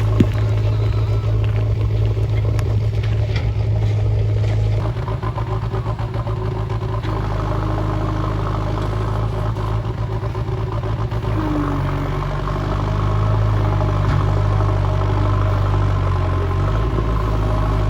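Diesel engine of a JCB 3DX backhoe loader running steadily while working, its note shifting with the load about five seconds in and again near the middle.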